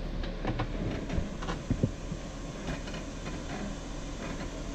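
Jeep engine running at low speed as it crawls over rocks, a steady low rumble, with scattered knocks and clunks in the first two seconds.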